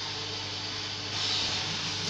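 Vacuum cleaner running: a steady airy hiss over a low motor hum, getting a little louder about halfway through.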